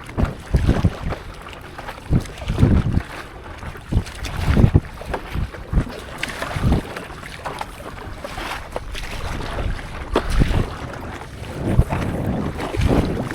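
Stand-up paddleboard paddle strokes and water sloshing, in irregular surges every second or two, with wind buffeting the microphone.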